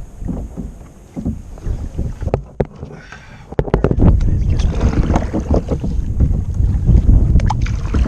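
Wind buffeting the microphone on a kayak, growing louder from about halfway, with a few sharp knocks near the middle.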